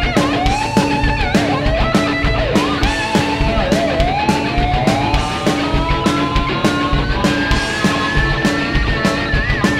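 Live rock band playing an instrumental passage: drums keep a steady beat of about two strikes a second under bass, while a lead string instrument plays a sliding, bending melody. Near the end the lead settles on a long held note with vibrato.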